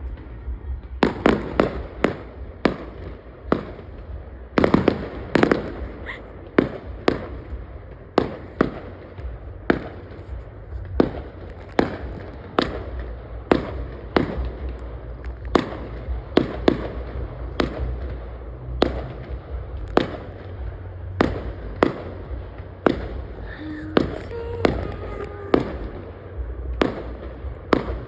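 Fireworks going off in a steady run of sharp bangs, about one to two a second, over a steady low rumble.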